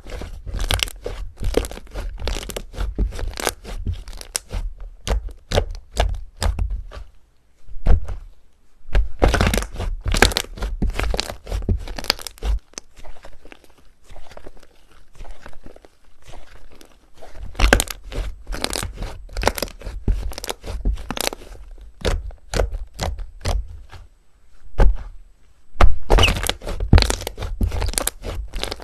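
Slime being squeezed and pressed, giving dense crackling and popping clicks in bursts with brief pauses between them.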